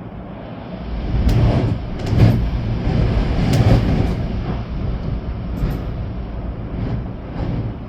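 Storm wind gusting hard over rain, buffeting the microphone with a deep rumble. The wind swells about a second in, with several strong gusts, then eases a little near the end.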